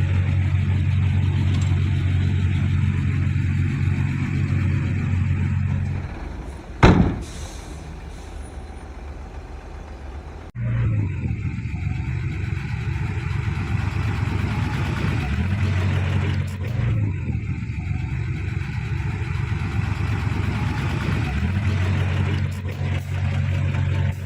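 Heavy diesel engine of earthmoving machinery running steadily. It falls away about six seconds in, then a single loud bang sounds. The engine comes back suddenly a few seconds later and keeps running.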